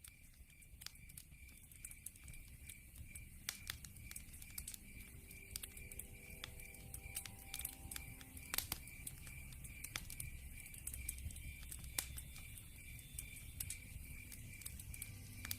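Log fire crackling with irregular sharp pops over a low rumble, and an even, high-pitched chirp pulsing about three times a second. The whole sound fades up over the first couple of seconds.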